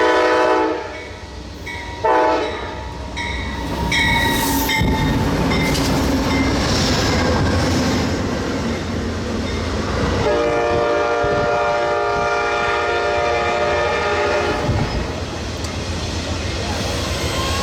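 Passing train's air horn sounding a chord: a blast that cuts off about a second in, a short toot about two seconds in, and a long blast from about ten to fifteen seconds in. Under it runs the steady rumble and clatter of the train's wheels on the rails.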